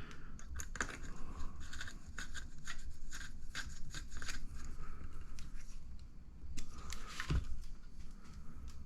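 Small clicks, taps and light scraping of tiny metal and plastic kit parts being handled and fitted at a workbench, with a somewhat louder knock near the end.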